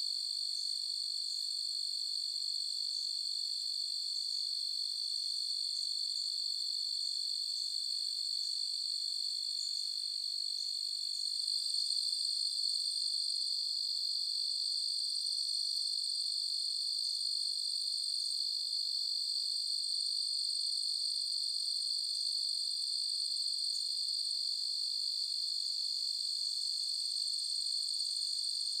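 Night-time chorus of crickets trilling, a steady high-pitched sound without pauses that grows slightly louder about twelve seconds in.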